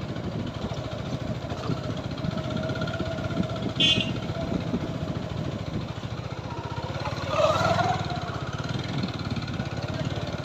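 TVS Apache 4V motorcycle's single-cylinder engine running steadily while riding on a rough dirt track. A short sharp clatter comes about four seconds in, and a brief louder sound with a rising pitch near eight seconds.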